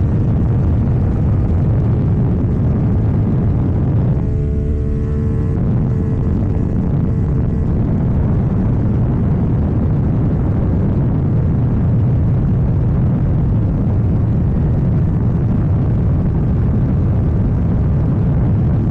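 Heavy wind noise buffeting the microphone of a KTM Duke 790 at speed, over the motorcycle's parallel-twin engine with an Arrow full exhaust. The engine note comes through clearly for a couple of seconds about four seconds in.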